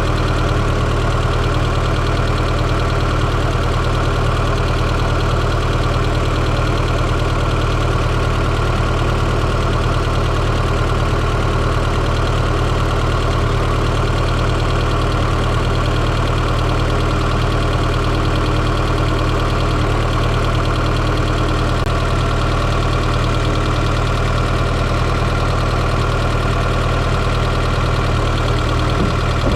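1995 Fiat Coupé 2.0 16V turbo engine idling steadily, heard up close from inside the engine bay.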